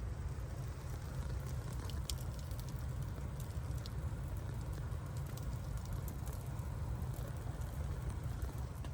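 Wood fire crackling in a fireplace, with scattered small pops over a steady low rumble.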